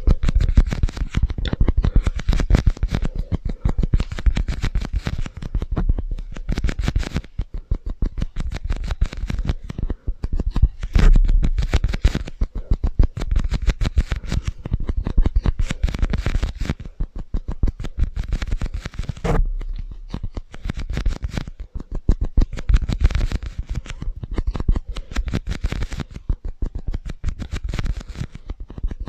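Dense, rapid tapping and scratching clicks from hand-made ASMR triggers, with a few short pauses and some dull low thumps.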